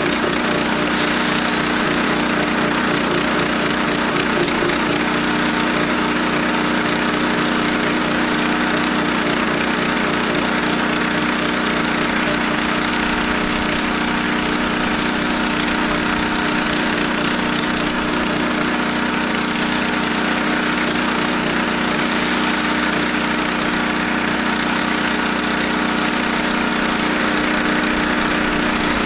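Gas-engine pressure washer running steadily at full speed, with a continuous hiss of spray as it pumps a bleach-and-soap mix through a low-pressure soap tip.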